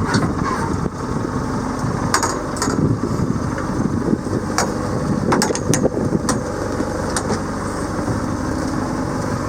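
Training boat's engine idling steadily, with several short sharp clicks or knocks in the middle of the stretch.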